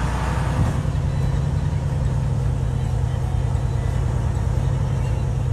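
A steady low rumble with an even hiss above it, unbroken throughout.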